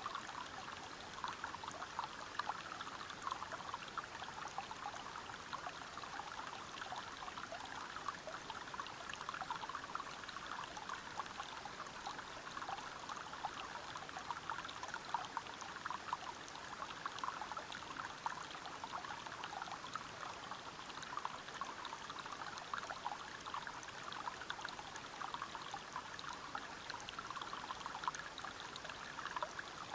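River water flowing over rocks: a steady splashing rush made of many small splashes and trickles.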